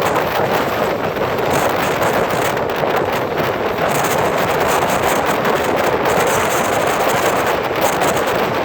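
Passenger train rolling past at speed: a steady, loud rushing rumble of wheels on rail.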